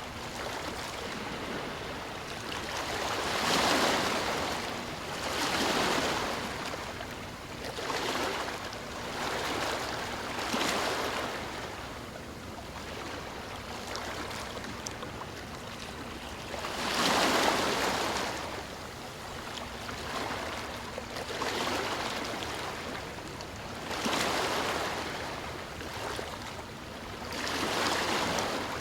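Sea waves washing in, each swell of surf rising and falling every two to three seconds over a steady wash of water, with one louder wave about two-thirds of the way through.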